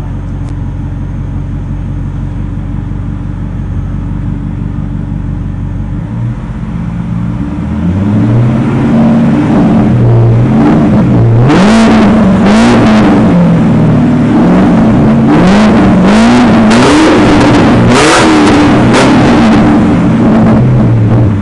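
BMW E66 7 Series engine through a custom exhaust, idling steadily and then, from about eight seconds in, revved again and again, the note climbing and falling with each blip, before easing back toward idle near the end.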